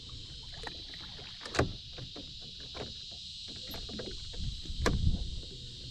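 Knocks and water sounds from a small boat on the water: a sharp knock about a second and a half in and a louder stretch of bumping and sloshing near the end, over a steady high hum of insects.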